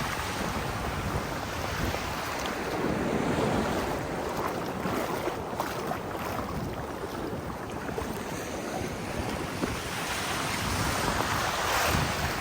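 Ocean surf washing and breaking on a sandy beach, swelling louder twice, with wind buffeting the microphone.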